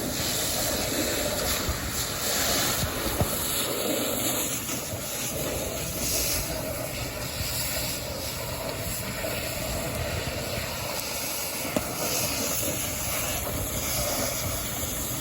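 Steady hissing noise over a low engine rumble, typical of a fire engine running at a fire scene while water from a hose line meets the burning car, with a few faint clicks.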